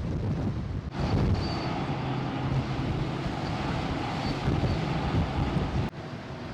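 Wind buffeting the microphone over a steady low rumble of the ferry under way, with abrupt jumps in level about a second in and near the end.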